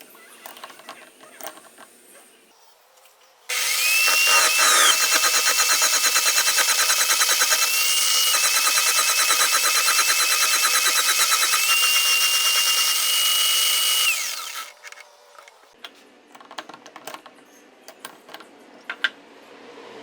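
Electric drill running the homemade drill-powered wooden lathe for about eleven seconds, its whine rising as it spins up and holding steady before winding down. Light clicks and knocks before and after.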